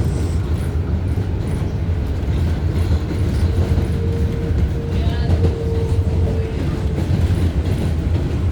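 Interior of an R188 subway car on the 7 line running between stations: a steady, loud rumble of wheels on the rails. From about three and a half seconds in to about seven seconds, a steady whine rides on top of it.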